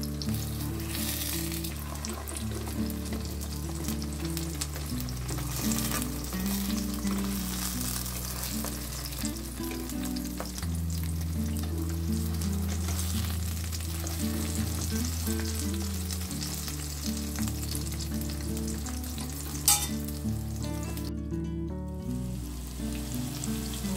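Zucchini slices sizzling steadily as they fry in oil in a pan, with scattered clicks of a fork and wooden spatula against the pan, one sharper click near the end. Soft background music plays underneath.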